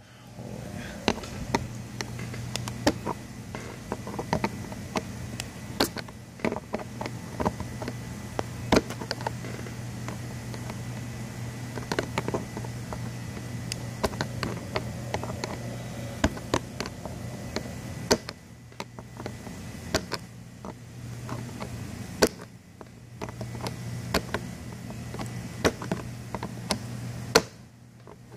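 Handling noise from tightening a part on an air-mattress blower: scattered small clicks and knocks of tools and parts, over a steady low hum.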